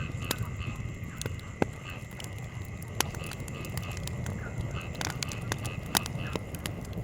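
Wood campfire crackling, with frequent sharp snaps and three louder pops, over a steady low rumble of fire and breeze. Behind it run a steady high hum and short repeated chirps.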